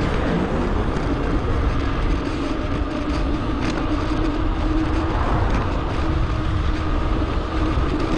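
Steady wind and road rumble from a GoPro camera riding on a moving bicycle, sped up so it sounds higher and busier, with a faint steady hum running through it.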